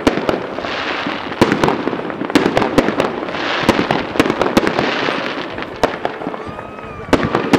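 Fireworks going off: an irregular run of sharp cracks and pops over a hissing, crackling wash, with a cluster of louder cracks near the end.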